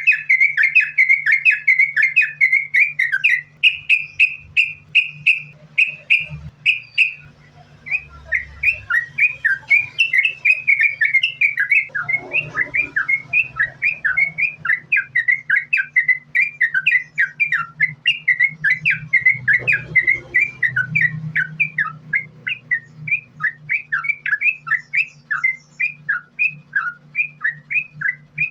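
Yellow-vented bulbul singing a continuous run of quick chirping notes, about three a second, with a short pause about seven seconds in. A steady low hum runs underneath.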